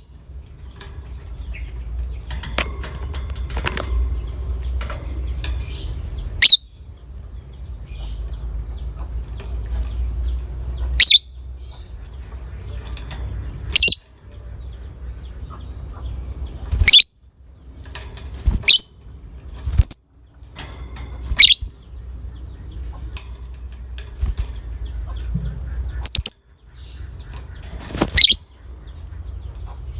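Lovebird giving short, shrill calls every few seconds, some in quick pairs, over a steady high-pitched hiss and a low rumble.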